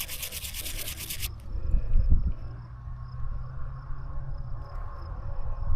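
Brisk, rhythmic rubbing of dirt off a small die-cast toy car body, which stops about a second in. It is followed by an insect chirping faintly and evenly, a few times a second.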